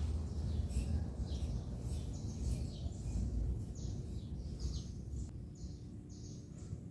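Small birds chirping: short, high chirps about twice a second, each falling in pitch, over a low rumble.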